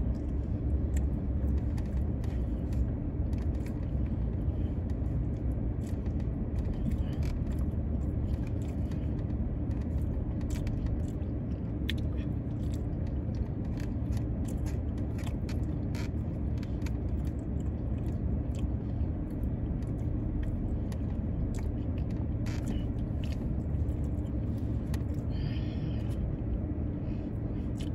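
Steady low rumble of a parked car idling, heard inside the cabin, with scattered small clicks of chewing and handling food throughout.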